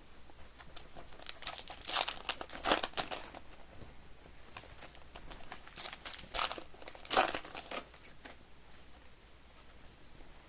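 Plastic wrappers of trading card packs being crinkled and torn open, in two bouts of crackling rustle, with quieter handling rustle between and after.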